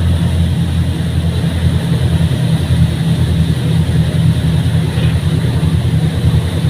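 Fast passenger ferry's engines droning steadily, a loud, even low hum.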